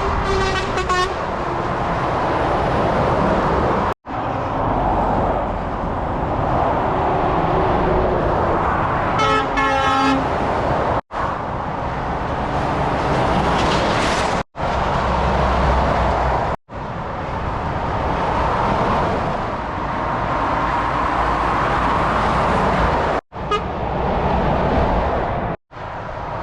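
Heavy motorway traffic passing, with a vehicle horn tooting briefly twice: once right at the start and again about nine seconds in, the horn passing by with the traffic.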